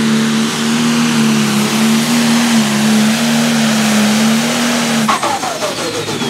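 Pro Stock pulling tractor's turbocharged diesel engine running at full throttle with a steady high note. About five seconds in, the throttle comes off and the engine note falls away, with a high turbo whine winding down: the end of the pull.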